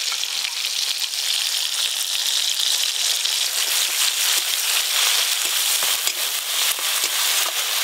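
Ground mustard and poppy seed paste with tomato and green chilli sizzling steadily in hot mustard oil in a metal karai, with fine crackling as it is stirred.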